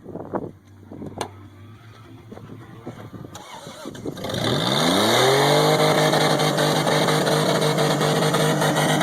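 Pickup truck engine revving up about four seconds in, then held steady at high revs as if the throttle is propped open. A few sharp knocks come before it.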